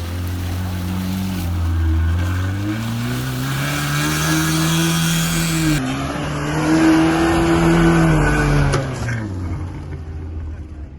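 Off-road 4x4 engine revving hard under load, its pitch climbing and held high for several seconds before dropping away near the end, as the vehicle tries to push through a difficult patch.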